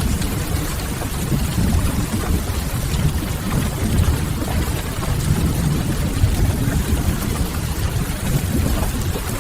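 Steady rain noise with a deep, low rumble beneath it and the soft crackle of a wood fire mixed in.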